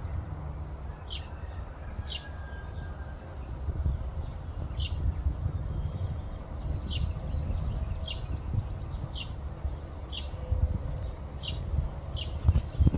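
A bird repeating a short, high chirp about once or twice a second, over a continuous low rumble of wind on the microphone.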